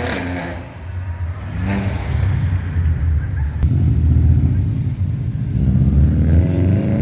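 Car engine rumbling low as it drives past, with a short rev about two seconds in and another rising rev near the end.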